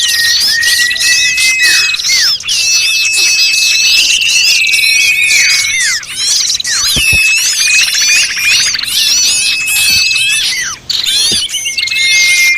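A dense, noisy chorus of many small birds chirping and chattering at once, with long level whistles held for a second or two. This is a bird-lure (pikat) recording of mixed small-bird calls, used to draw small birds in.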